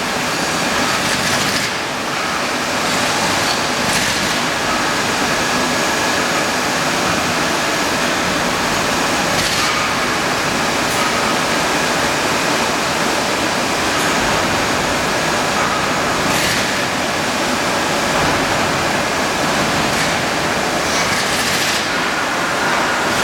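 Steady machine noise of a two-station induction hardening machine at work: an even rushing hiss with faint steady high tones and a few light knocks.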